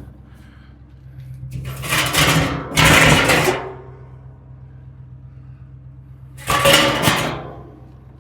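Tow truck engine running at a steady idle. Over it come two loud rushing, hiss-like bursts: the first starts about a second and a half in and lasts about two seconds, the second is about a second long near the end.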